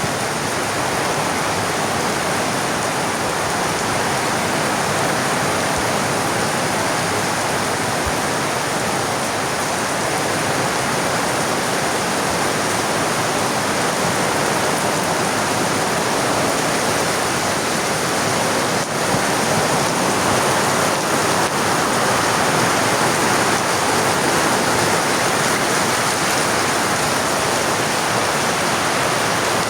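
Heavy rain falling steadily, a loud, even rushing hiss.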